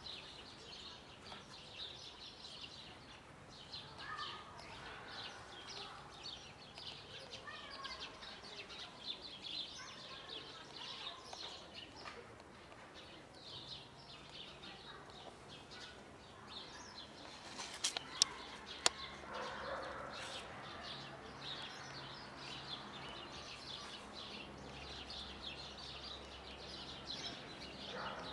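Many small birds chirping continuously in a busy chorus, with a few sharp clicks about two-thirds of the way through.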